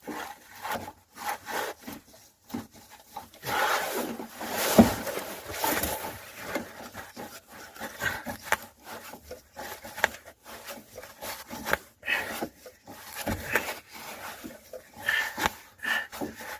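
Irregular rubbing and scraping as an old fuel hose is twisted back and forth on its fitting to break it free.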